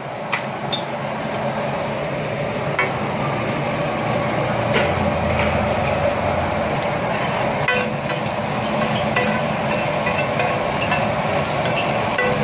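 Crumbled shami kabab, onions and a cracked egg frying with a steady sizzle on a large flat tawa griddle, with a few clinks and scrapes of a metal spatula against the griddle.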